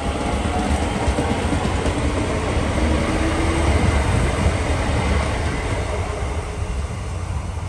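A DART electric commuter train passing along the platform, a steady rumble of wheels on the rails that eases a little as the last carriage goes by.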